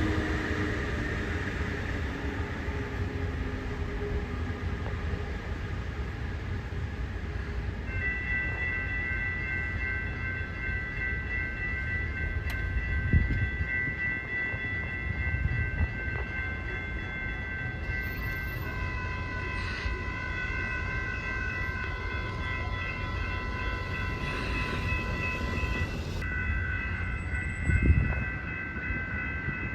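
A train rolling past with a steady low rumble. About eight seconds in, a high multi-note train horn starts sounding and holds on, its chord shifting a few times.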